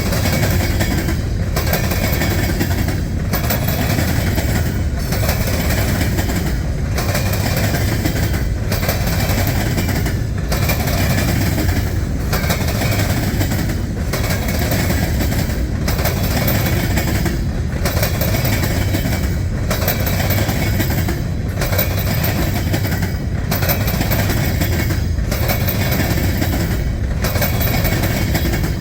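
Norfolk Southern freight train's cars rolling past at close range: a steady rumble of wheels on rail, with a regular beat about every two seconds as the cars go by.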